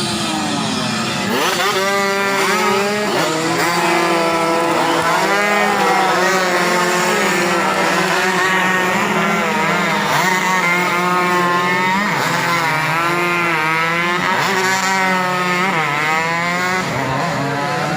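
Several tuned 120cc underbone racing motorcycles revving hard, their engine notes overlapping. The pitch climbs and falls back again and again as they accelerate and shift through the gears.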